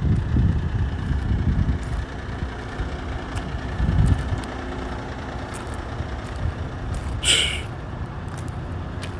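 Heavy diesel truck engine running with a steady low rumble, heavier in the first couple of seconds. A short hiss of released air comes about seven seconds in.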